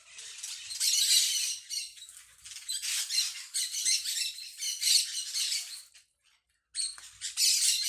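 Small birds chattering in high, rapid calls that overlap. The chatter breaks off briefly about six seconds in, then starts again.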